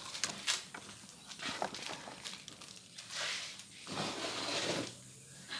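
A few light clicks, then two longer spells of rustling, from hands fitting plastic wiring plugs onto the dishwasher's relay board.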